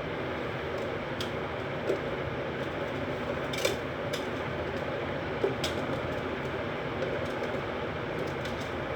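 Soft slime being handled, with a few small sharp pops and clicks over a steady background hiss.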